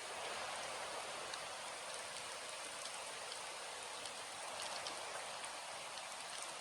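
Steady rain, an even hiss with scattered ticks of single drops hitting a surface.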